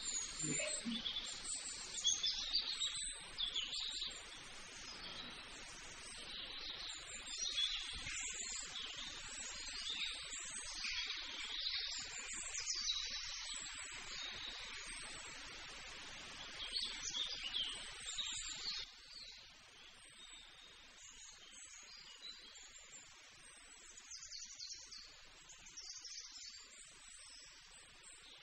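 Small birds chirping, with many short high calls overlapping; the chirping grows fainter in the last third.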